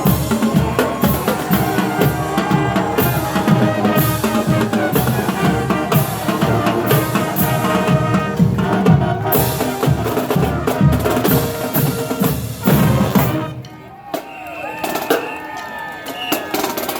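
Marching band playing loudly, wind instruments over a drumline of snare and bass drums, until the music cuts off about three-quarters of the way through; quieter voices follow.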